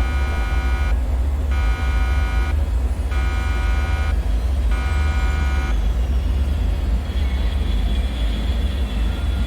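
Deep, steady low rumble, like heavy machinery droning. Over it an alarm-like buzzing tone sounds four times, each about a second long with short gaps, and stops a little over halfway through.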